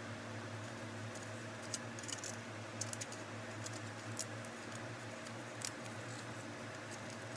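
Scattered light clicks and taps of small electronic parts and tools being handled, over a steady low hum.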